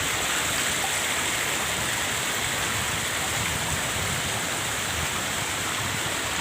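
Steady rush of flowing water, an even hiss that holds constant throughout.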